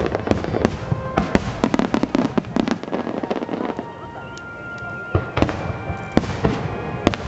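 Aerial fireworks display: a rapid barrage of bangs and crackling bursts, easing off about four seconds in, then more bangs a second later.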